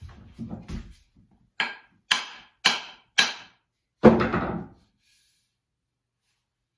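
Five sharp wooden knocks, about half a second apart, the last one the loudest: an axe handle being struck to drive a double-bit axe head down onto it while hanging the head.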